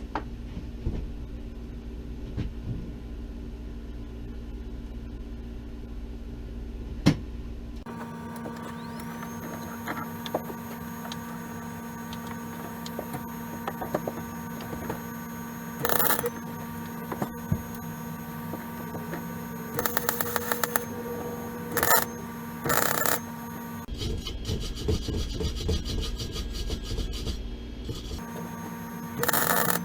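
Several short bursts of MIG welding with a spool gun on aluminium, each arc crackling for about a second, over a steady hum.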